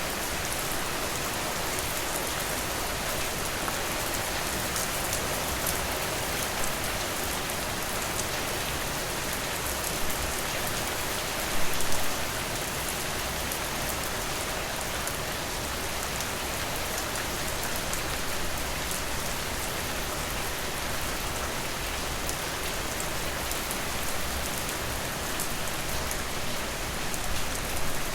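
Steady rainfall, a dense even patter, briefly louder about twelve seconds in.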